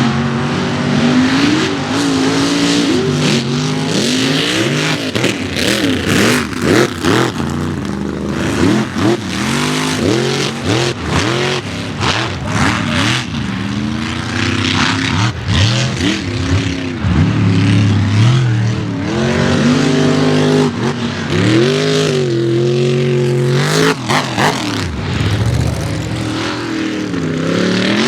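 Mega mud truck engine revving hard, its pitch rising and falling over and over as the throttle is worked.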